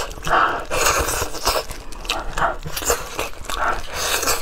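Close-miked wet chewing and lip-smacking of a person eating braised pork trotter, the smacks coming about twice a second.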